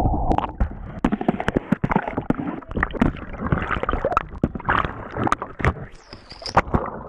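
Water sloshing and gurgling around a kayak on a river, broken by many irregular sharp splashes and knocks.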